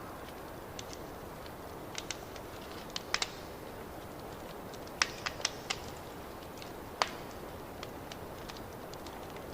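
Fireplace fire crackling: a steady soft hiss broken by irregular sharp pops, with a quick run of four pops about five seconds in and a single loud pop a couple of seconds later.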